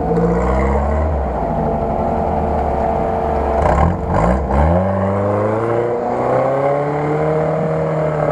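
Off-road vehicle's engine working under load in low gear on a muddy track; its note dips about three and a half seconds in, then climbs back up to a steady, slightly higher pitch.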